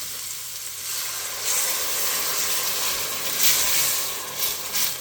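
Water poured into a hot pan of onion and curry-spice purée, sizzling and hissing as it hits the pan. The hiss gets louder about one and a half seconds in and surges twice near the end.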